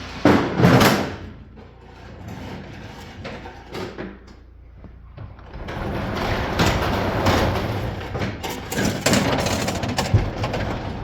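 Small MTD two-stroke engine with very low compression being pull-started on an oil-heavy fuel mix. It starts with two hard recoil-cord pulls in the first second, then a longer rough, noisy stretch from about halfway as it tries to fire.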